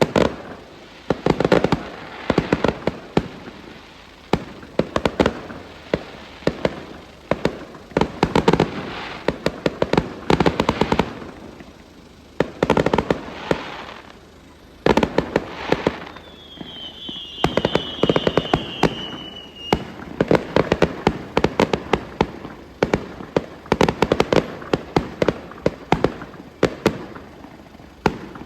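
Fireworks going off: clusters of sharp bangs and rapid crackling pops, one after another. Over the middle there is a whistle falling in pitch for a few seconds.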